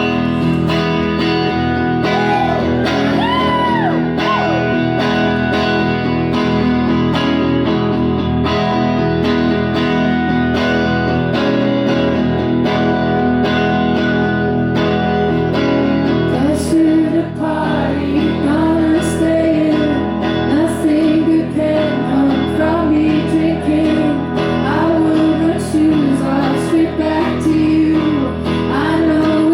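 Live solo performance of a woman singing to her own guitar: guitar chords throughout, with a brief sung line early on and the voice singing steadily from about halfway in.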